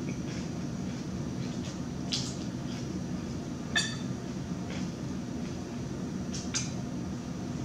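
Close-up mouth sounds of someone chewing a salad with shrimp, with three sharp, crisp clicks about two, four and six and a half seconds in, the middle one loudest, over a steady low hum.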